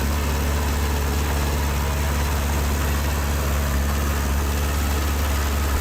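Heavy diesel engine of earthmoving machinery running steadily at an even, low pitch, with no change in speed.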